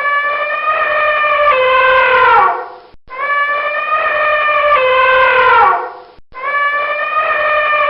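Rooster crowing three times, each crow a long steady call of about three seconds that steps down in pitch halfway through and falls away at the end; the three crows are identical.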